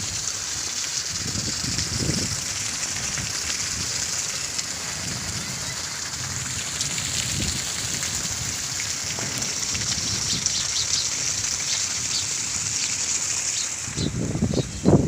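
Heavy monsoon rain falling steadily, with a low rumble near the end.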